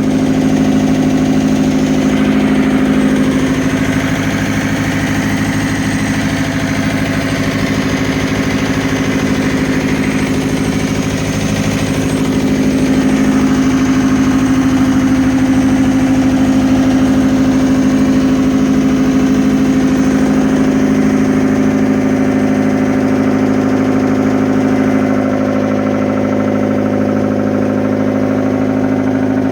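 Fiat Hitachi FH150 excavator's diesel engine running steadily at idle, its note even throughout.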